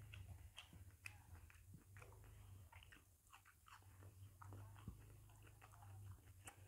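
Faint chewing and small wet mouth clicks of a person eating soft ripe jackfruit, over a low steady hum.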